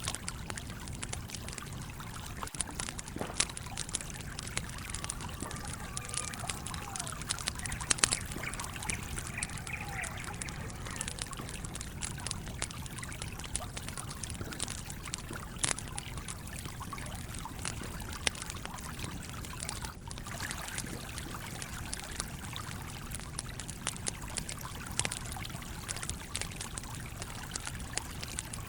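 Campfire crackling with scattered sharp pops, over the steady flow of a babbling stream.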